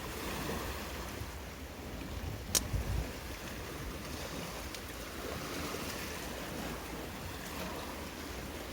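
Wind buffeting the microphone outdoors, a fluctuating low rumble with a light hiss over it, with one sharp click about two and a half seconds in.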